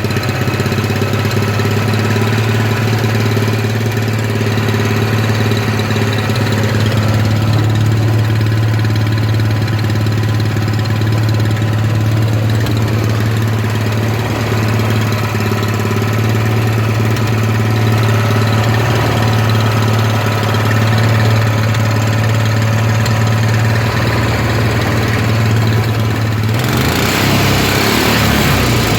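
Honda 6.5 HP single-cylinder four-stroke engine idling steadily while running on gasoline vapor from a homemade vaporizer rather than liquid fuel. Near the end a broad rushing noise joins for about two seconds.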